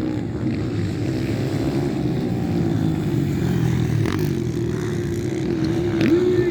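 Motocross motorcycles of the 125 to 160 cc class running steadily on the track. One engine's pitch drops sharply and comes back up near the end as the rider backs off and gets on the throttle again.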